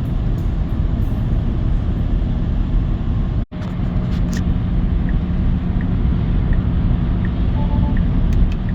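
Steady road and tyre noise inside the cabin of a Tesla Cybertruck driving on a wet road in the rain. The sound drops out for an instant about a third of the way in, and a steady low hum joins it afterwards.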